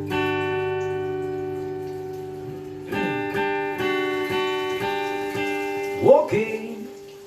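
Acoustic guitar: a chord is strummed and left to ring and fade, then a run of strummed chords starts about three seconds in. About six seconds in there is a brief, louder sliding sound.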